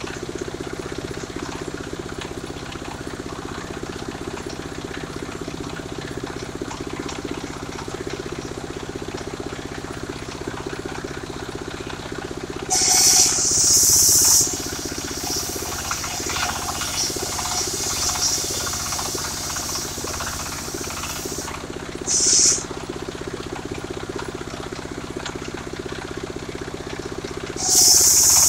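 Portable circular sawmill running steadily, its engine humming while the blade spins. Loud, high hissing bursts come three times: about 13 s in for over a second, briefly about 22 s in, and again near the end.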